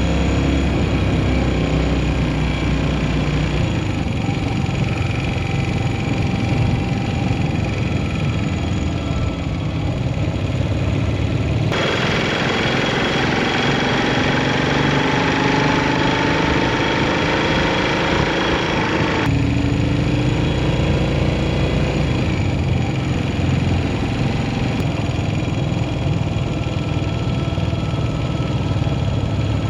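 Yamaha SR400's single-cylinder engine running under way, its pitch gliding up and down with throttle and gear changes, over steady rushing riding noise. The sound jumps abruptly three times, about 12, 19 and 25 seconds in, where one riding shot cuts to the next.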